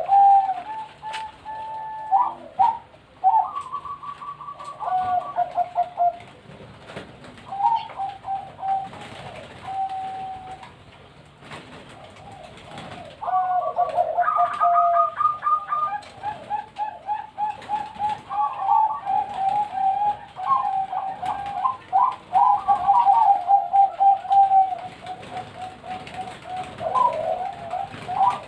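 Several zebra doves (perkutut) cooing in rapid runs of short notes, their calls overlapping at different pitches, with a quieter spell near the middle.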